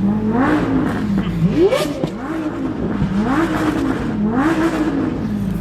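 Car engines revved again and again, each rev a quick rise and fall in pitch, about once a second.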